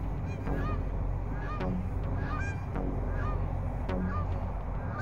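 Birds calling: short, repeated calls, a few a second, each a brief upward-curling note, over a steady low rumble.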